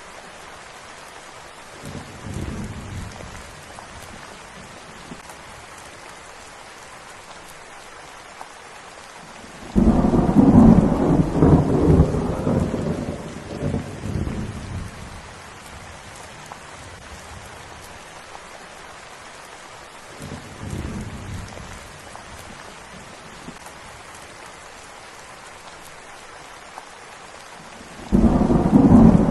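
Steady rain falling with thunder: faint rumbles early on and in the middle, a loud thunderclap about a third of the way in that rolls off over several seconds, and another loud one breaking near the end.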